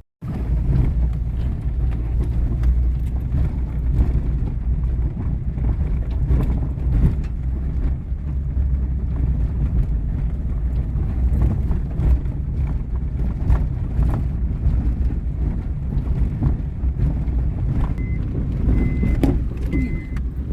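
Motor vehicle running, with a steady low rumble and frequent rattling knocks. Near the end a reversing beeper starts, beeping about once a second.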